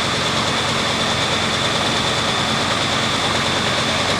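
Heavy diesel engine of a Super Farm class pulling tractor running steadily, with a steady high whine over the engine noise.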